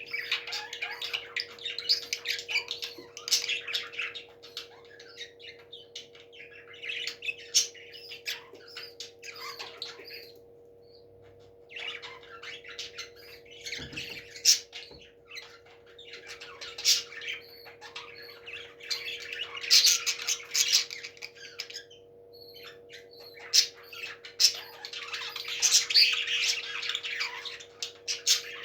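Parrots squawking and chattering in repeated harsh bouts with short pauses between them, over a steady low electrical hum; a single knock about halfway through.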